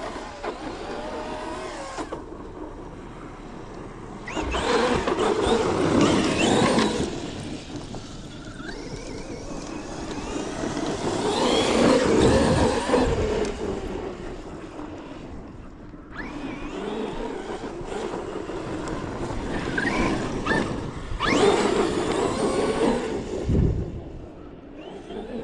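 Large electric RC monster truck on Sledgehammer tires being driven around a track, its motor whining up and down in pitch with the throttle. It swells loud three times as it runs close by.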